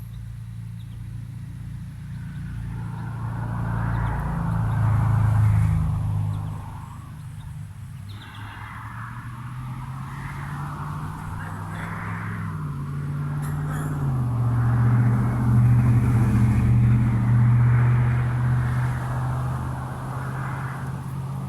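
A motor engine running close by. Its low hum steps up and down in pitch several times, under a rushing noise that swells and fades twice.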